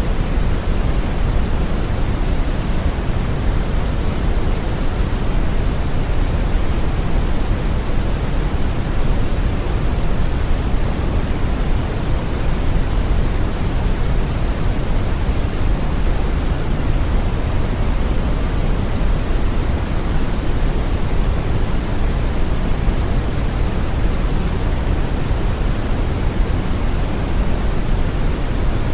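Steady brown noise: a deep, even rushing hiss, heaviest in the low end, with no change or events.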